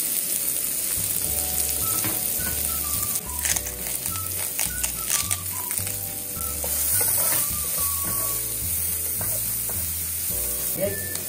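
Small sausage pieces and diced onion sizzling in oil in a frying pan, stirred now and then with a wooden spatula that scrapes across the pan.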